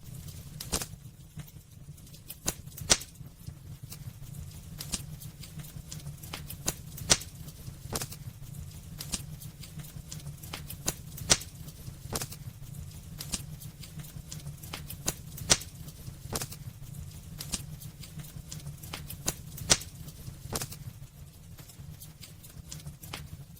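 Wood burning in a fireplace, crackling with irregular sharp pops, a few of them much louder than the rest, over a steady low rumble.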